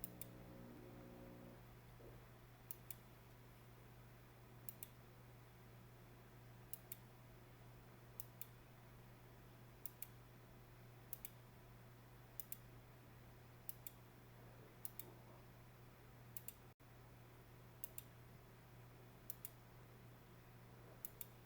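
Faint computer mouse clicks, mostly quick pairs of clicks, about every one and a half to two seconds, over a low steady hum.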